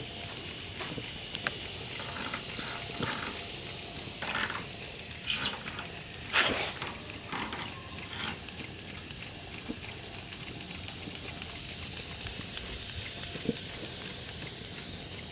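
K-Dee toy steam engine under steam: a steady hiss, with irregular spits and pops through the first half that settle into an even hiss.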